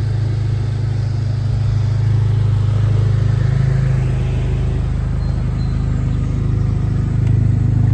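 Honda Civic Type R FL5's turbocharged 2.0-litre four-cylinder idling through an AWE Track exhaust, a steady low drone.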